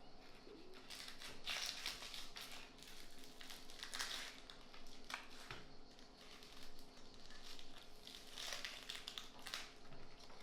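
Soft crinkling and scraping of hands handling food in a kitchen, a string of short irregular strokes about once a second.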